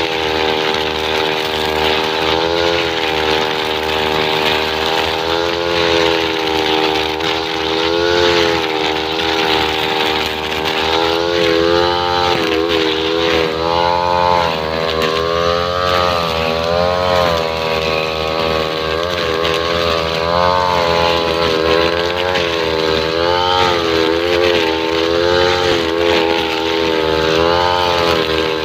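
Two-stroke brush cutter engine running at high revs, its pitch wavering up and down as the throttle and load shift while the nylon-blade trimmer head cuts grass.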